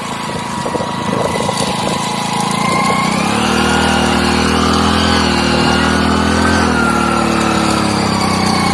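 Motorcycle engine running on the move with road and wind noise; about three seconds in its note rises and grows strong and steady, easing off near the end. The bike is under extra load, pushing a second motorcycle that has run out of fuel along by the rider's foot.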